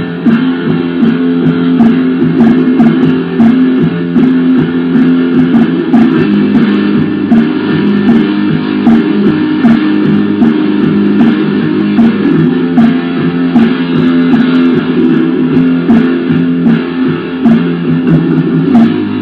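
Lo-fi black metal: distorted electric guitar and bass playing a dense, droning riff over a steady beat of drum hits.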